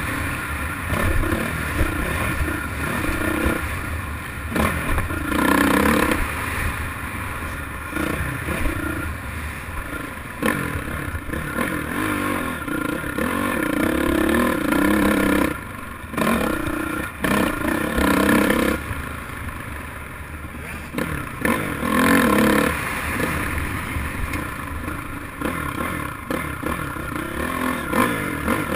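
Motocross dirt bike engines revving, their pitch rising and falling again and again, with several louder stretches as the engine note swells.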